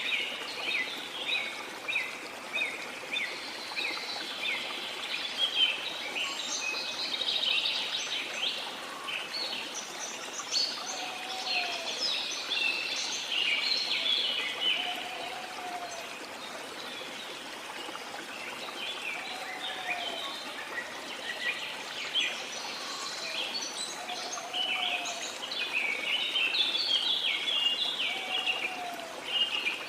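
A steady rush of flowing river water under a busy chorus of rain-forest birds chirping and twittering. A lower, short whistled call repeats every four to five seconds in the second half.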